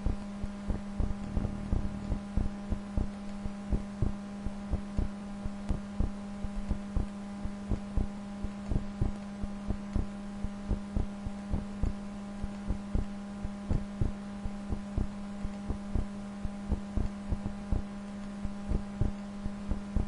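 Computer mouse clicking irregularly, about two to four clicks a second, as points are placed and dragged in digitizing software, over a steady low electrical hum.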